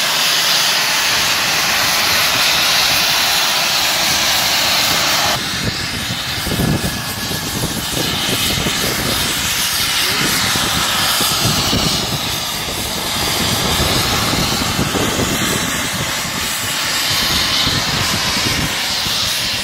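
Radio-controlled model jets' turbine engines running in flight, a loud, steady jet hiss. About five seconds in the sound shifts, with the high hiss easing and an uneven low rumble coming in beneath it.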